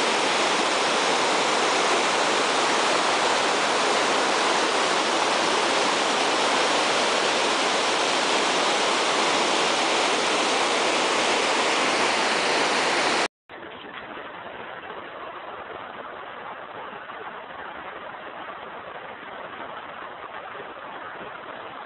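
Waterfall rushing steadily. About two-thirds of the way through the sound cuts off abruptly and gives way to a quieter, duller steady rush of water.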